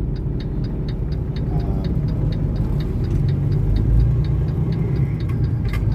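Semi truck's diesel engine running steadily, heard inside the cab as a low drone. Over it an even, light ticking runs at about three to four ticks a second.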